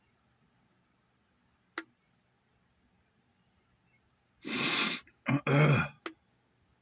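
A person clearing their throat: one long harsh rasp, then two shorter ones about half a second later. A single sharp click comes a couple of seconds before it.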